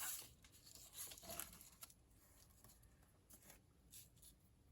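Near silence with a few faint rustles and light taps of paper cut-outs being handled.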